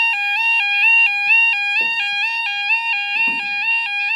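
Level crossing warning alarm sounding steadily, a two-tone electronic alarm alternating between a higher and a lower note about twice a second, warning that a train is approaching.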